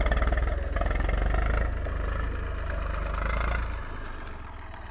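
Eicher 380 tractor's diesel engine running with a steady low throb, easing off slightly near the end.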